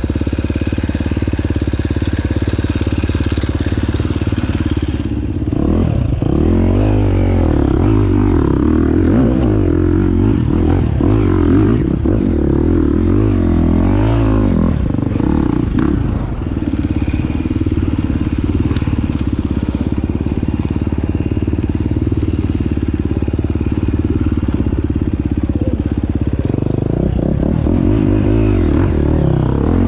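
Dirt bike engine running under load as it is ridden, its pitch rising and falling again and again with the throttle.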